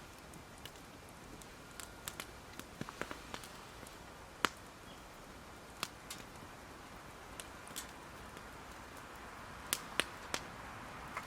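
Wood campfire crackling: sparse, irregular sharp pops over a faint steady hiss, with one loud snap about halfway through and a quick run of pops near the end.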